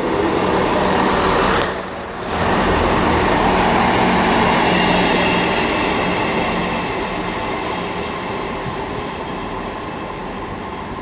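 Class 158 diesel multiple unit moving through the station close by, its underfloor diesel engines droning under the rumble of wheels on rail. The sound is loudest a few seconds in and fades slowly after that.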